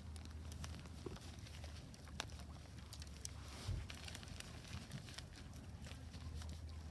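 Wood fire crackling in a Solo Stove Ranger fire pit: irregular sharp pops and snaps over a steady low rumble, with one louder thump a little past halfway.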